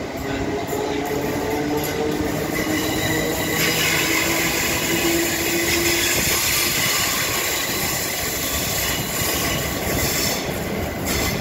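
Southern class 455 electric multiple unit moving through the platform: a steady rumble of wheels on rail with the motors humming and rising a little in pitch. A harsher high-pitched hiss joins from about four seconds in and fades near the end.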